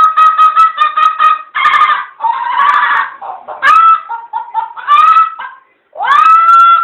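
A person imitating fowl calls: a series of loud, high, pitched calls chopped into quick pulses. Several calls rise in pitch at their start, and there is a short break near the end.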